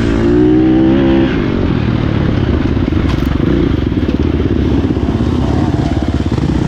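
Dirt bike engine pulling hard at high revs for about a second, then dropping to lower, rapidly pulsing revs as the throttle comes off.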